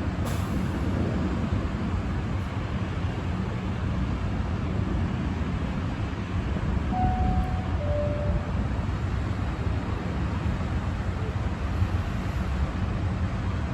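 Steady low rumble of vehicle traffic, with two short tones, the second lower, about seven seconds in.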